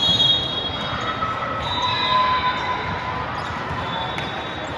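Echoing gymnasium noise during a team game: a steady hubbub from the crowd and court, loudest right at the start, with a few thin high tones held briefly over it.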